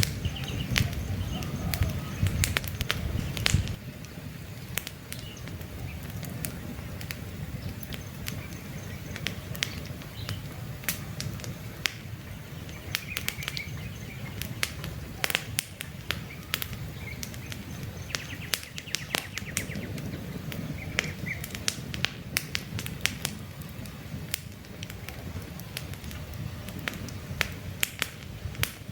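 Campfire crackling: burning wood snapping and popping in quick irregular clicks over a low rumble, heavier for the first few seconds. A few faint bird chirps in the background.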